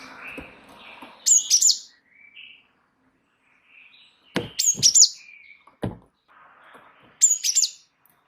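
Gelatik wingko (cinereous tit) singing in a lively run. It gives three loud bursts of sharp, high notes about three seconds apart, with softer twittering between them.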